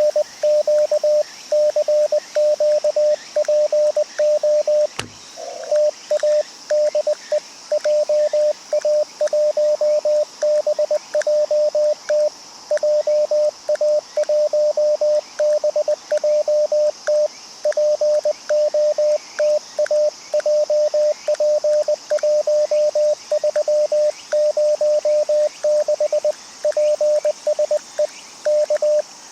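Morse code (CW) from an amateur radio transceiver: a single steady-pitched tone keyed on and off in dots and dashes at about 20 words per minute, with one sharp click about five seconds in.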